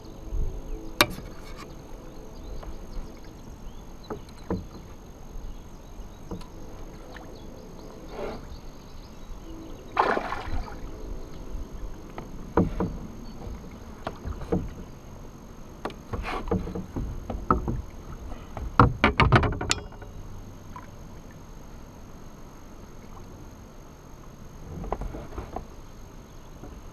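Knocks, clicks and scrapes of handling in a fishing kayak, with louder rustling bursts about ten seconds in and again near twenty seconds.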